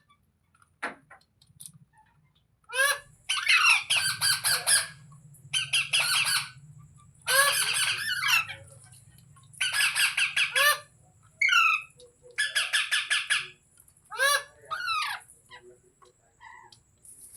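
Indian ringneck parrot squawking: five quick runs of harsh, rapidly repeated calls about a second each, with single calls in between.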